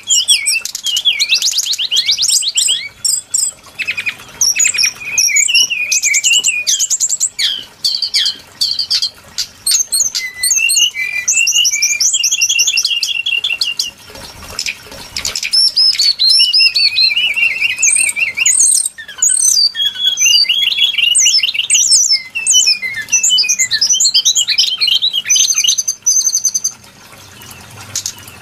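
Brown-chested jungle flycatcher song, as played for a bird lure: a dense run of fast high trills and slurred whistles with hardly a pause, easing briefly about halfway and again near the end.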